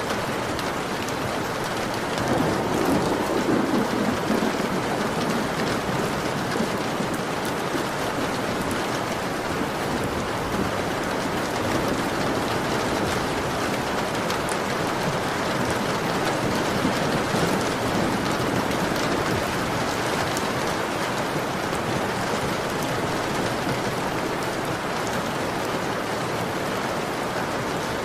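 Heavy rain falling steadily on a window, a dense even hiss, with a brief louder, deeper swell a few seconds in.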